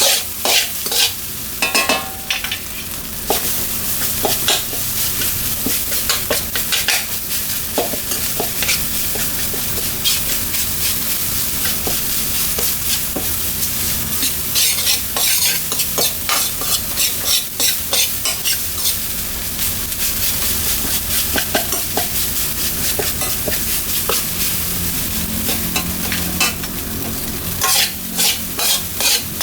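Fried rice sizzling in a hot pan while a metal spatula stirs and scrapes it: a steady sizzle with rapid, irregular clacks of metal on the pan.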